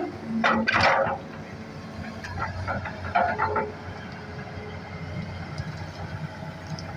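Hitachi hydraulic excavator's diesel engine running steadily while it digs, with a few short, louder noisy bursts in the first second and again about three seconds in.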